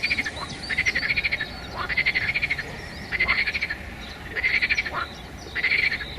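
Frogs calling: a rapid pulsed croak repeating about five times, roughly once every second and a quarter, with small bird chirps between the calls.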